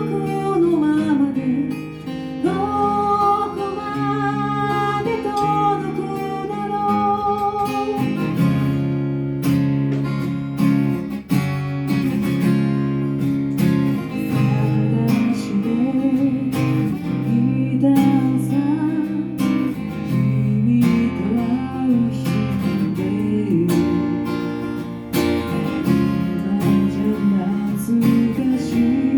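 Live acoustic guitar strummed and picked, accompanying a singing voice.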